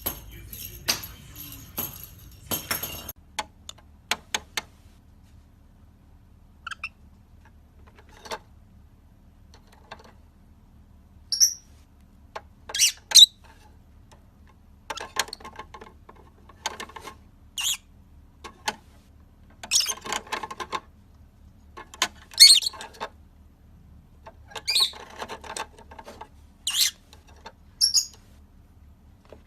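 Parrot giving short, high squawks and whistled calls, one every second or two, with quiet gaps between.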